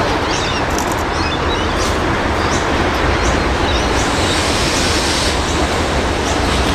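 Train running along the track: a steady rumble and rush of wheels and carriages, with faint short high chirps recurring over it.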